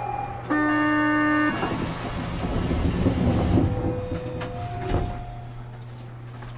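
Osaka Metro New Tram 200 series automated rubber-tyred train setting off: a one-second horn blast about half a second in, then the train pulling away with a rumble and a motor whine that steps up in pitch.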